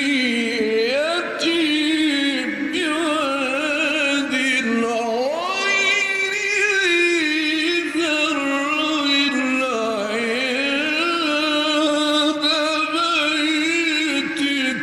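Male voice reciting the Quran in the melodic mujawwad style, drawing out long ornamented phrases that glide up and down in pitch.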